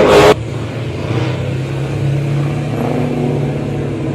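A car engine revving hard cuts off abruptly just after the start, leaving car engines running steadily at a lower level.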